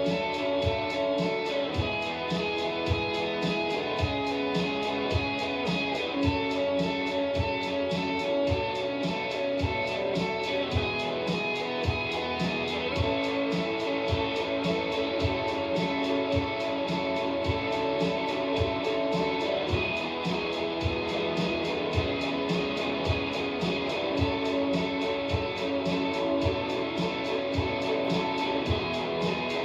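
Live indie rock played on electric guitar over a steady, regular beat, with no singing: the instrumental close of the song.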